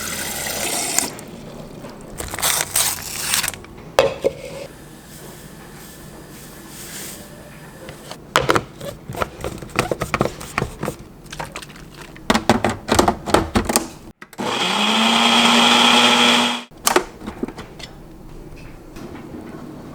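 Kitchen blender motor runs for about two and a half seconds while blending a protein shake, its pitch climbing briefly as it spins up, then it cuts off. Before it, scattered clicks and knocks of containers and lids being handled.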